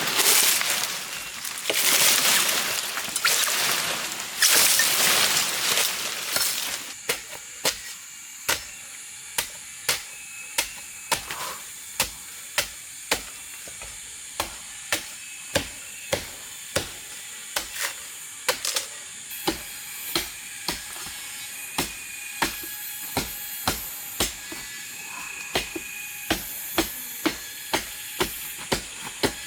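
A few seconds of loud rustling and crashing through vegetation, then a long run of sharp chopping strokes at about one to two a second. A steady high whine runs under them.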